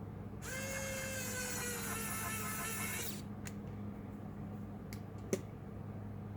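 Small electric screwdriver whirring for about two and a half seconds, its whine sagging slightly in pitch as it turns a laptop case screw. It is followed by a few light clicks and one sharper tap of small parts.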